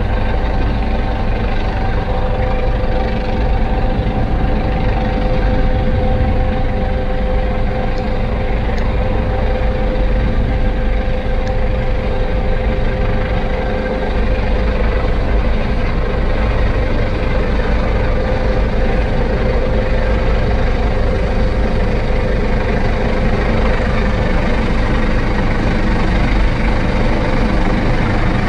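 Coast Guard helicopter running in a steady hover with a loud, unbroken drone of turbine and rotor.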